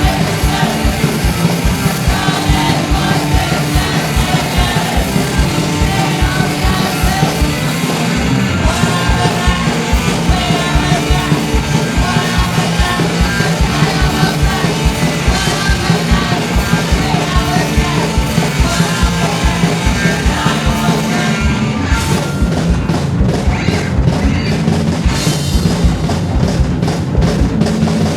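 Punk rock band playing live, with a fast, steady drum beat and shouted singing over a dense wall of instruments. Near the end the sound thins out and the separate drum hits stand out.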